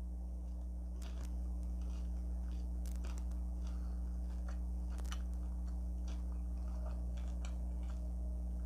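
Faint chewing and crunching of a Flamin' Hot Cheeto–crusted fried chicken wing, a few scattered crisp clicks, over a steady low electrical hum.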